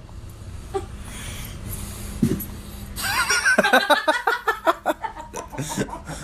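A person laughing in quick repeated bursts, starting about halfway in after a few seconds of low background noise.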